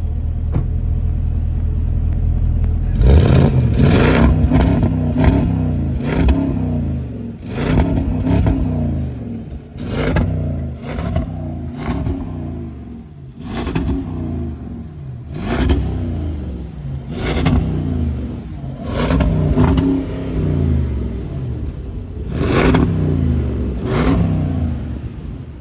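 Land Rover Defender V8 engine idling, then revved in repeated short blips from about three seconds in, a little over a dozen times, each rising sharply and dropping back to idle.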